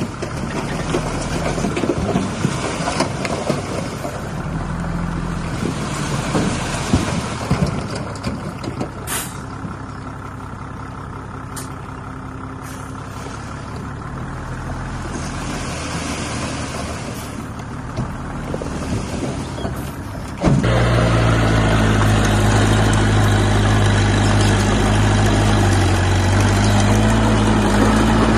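Diesel engines of heavy construction machinery running under load, with a sharp click about nine seconds in. About twenty seconds in the sound cuts abruptly to a louder, steadier engine whose pitch rises slightly toward the end.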